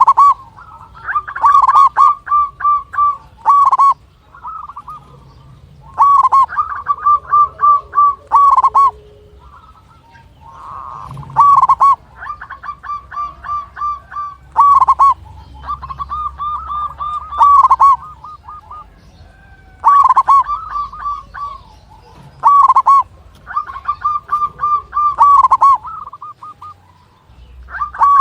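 Zebra dove (perkutut) singing loud cooing phrases. Each phrase is a quick run of clipped coo notes, and a new one starts every few seconds.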